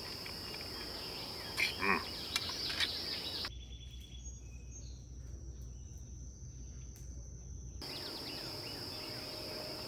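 Steady high-pitched drone of insects in the woods, with a few light clicks about two seconds in. Partway through, the drone cuts out for about four seconds and a low rumble takes its place, then the insect drone returns.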